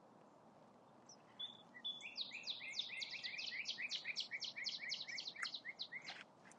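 A songbird singing a rapid series of short downward-slurred notes, about five a second for some four seconds, over faint steady outdoor hiss.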